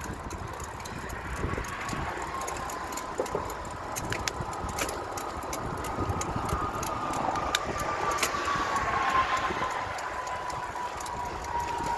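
Bicycle being ridden: irregular rattling clicks over steady rolling noise, with a thin steady whine that sinks slowly in pitch.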